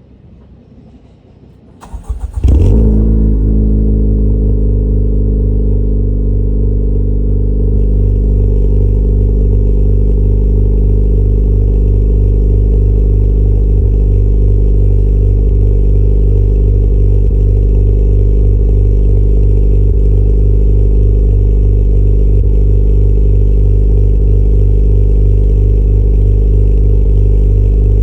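Honda Civic Type R FK8's 2.0-litre turbocharged four-cylinder started from fully cold through a Seeker S.E.S. 'TRIDENT' aftermarket exhaust: a brief crank about two seconds in, the engine catches with a loud burst, then settles into a loud, steady idle.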